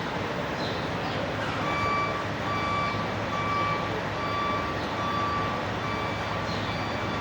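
A vehicle's reversing alarm beeping, one pitched beep a little under once a second, starting about one and a half seconds in, over a steady din of engines and traffic.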